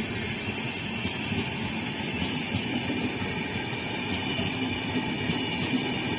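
An express train's passenger coaches passing at speed close by, with a steady rush of wheels on rail.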